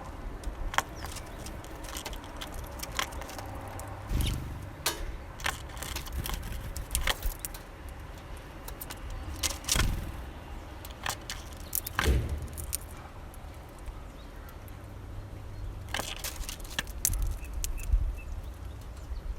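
Small birds feeding at a seed feeder: irregular sharp clicks and taps of beaks and claws on seeds and the feeder, with a few low thumps among them.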